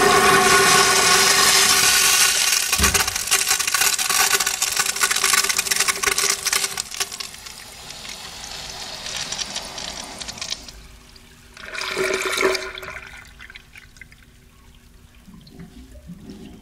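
Kohler urinal flushing: a loud rush of water that tapers off and ends about ten seconds in. A brief noisy burst follows about twelve seconds in, over a low steady hum.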